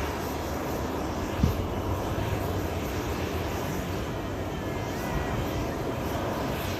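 Jet airliner engines running with a steady rushing noise and deep rumble. There is a faint short whine about five seconds in and a single light knock about a second and a half in.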